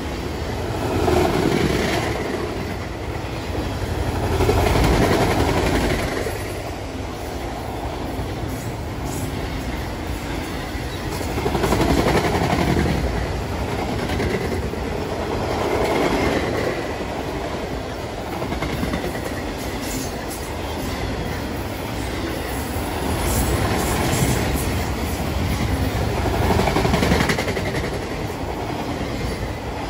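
Freight train of enclosed autorack cars rolling past: a continuous rumble of steel wheels on rail that rises and falls every few seconds as the cars go by.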